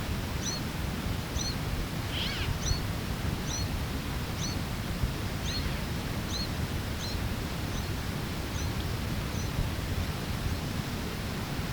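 Mourning Sierra Finch giving a short, high, hooked call note over and over, about one or two a second, which stops near the end. There is one louder falling call about two seconds in, over a steady low rumble of wind and tape hiss.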